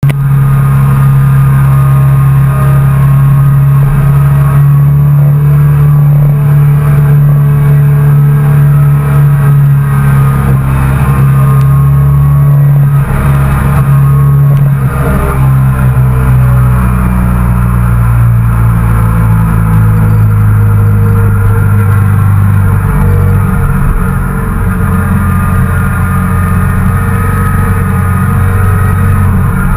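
Yamaha TDM 850 parallel-twin engine running at a steady cruise, heard up close from the bike itself. About halfway through, the engine note drops to a lower pitch and holds there.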